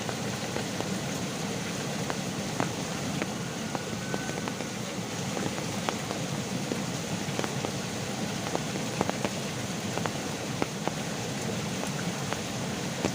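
Heavy rain falling steadily, a constant hiss with scattered sharp individual drops clicking through it.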